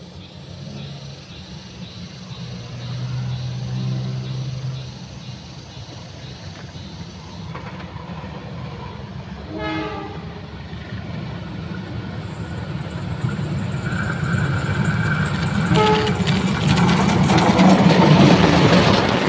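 KAI CC 203 diesel-electric locomotive hauling passenger coaches, approaching and passing close by, its low engine rumble growing steadily louder as it nears. It gives a short horn blast about ten seconds in and a briefer one around sixteen seconds, and the rumble and wheel noise are loudest as the locomotive passes at the end.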